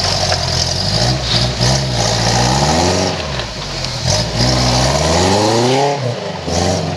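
Off-road vehicle engine revving twice: the pitch climbs for about a second, drops, then climbs again for about two seconds and falls off.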